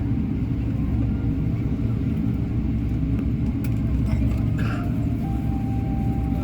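Steady low rumble of cabin noise inside a Boeing 777-300ER taxiing to the gate after landing. A faint steady tone comes in about five seconds in.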